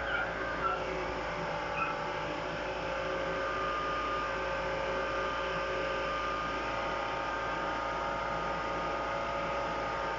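Car engine running with the air-conditioning system switched on during a freon recharge: a steady hum with a fixed whine from the running compressor and fans. A few light ticks in the first two seconds.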